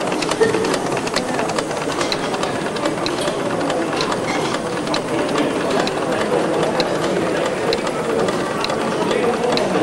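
Small model heat engine running steadily, with a light regular tick about once a second over its even mechanical churn.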